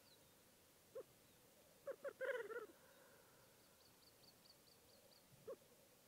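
Bird calls in a quiet forest: short hoarse calls, one about a second in, a quick cluster around two seconds and another near the end, with a faint run of small high chirps in between.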